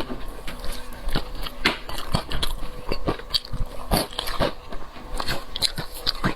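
Close-miked mukbang eating: biting and chewing seafood, with frequent short crisp clicks and crunches at an irregular pace.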